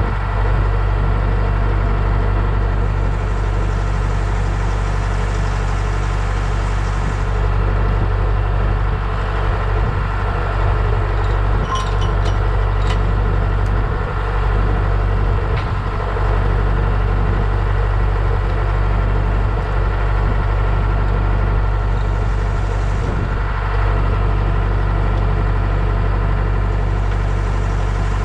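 An engine running steadily at an even speed, a low constant drone with no revving, with a few light clicks about twelve seconds in.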